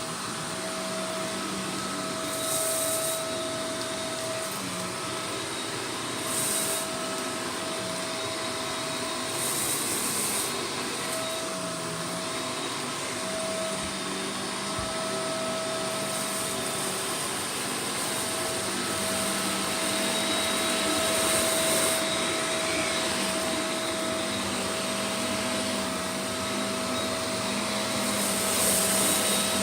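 Vacuum cleaner running steadily, its motor whine held at one pitch over a dense hiss, with several brief louder hissing surges.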